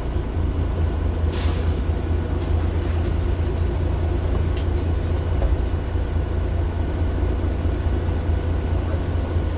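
Mercedes-Benz Citaro LE city bus with its Daimler OM 457 hLA six-cylinder diesel engine running steadily in a deep, even rumble. A short hiss comes about one and a half seconds in, and a few light rattles and clicks follow.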